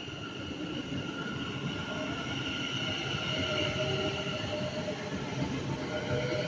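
A passenger train at the station platform gives a steady mechanical rumble with a high, level whine in several tones, growing a little louder partway through.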